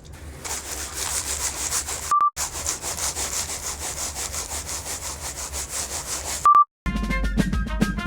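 Quick, evenly repeated rasping strokes, a rubbing or sawing sound, twice broken by a short electronic beep. Music with piano-like notes comes in near the end.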